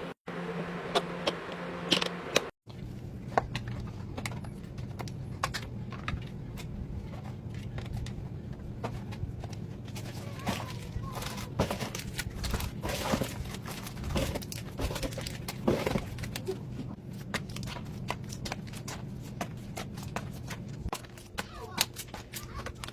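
Many light clicks, knocks and crinkles of containers and packaging being handled while a fridge is restocked, over a steady low hum. There is a brief silent break about two and a half seconds in.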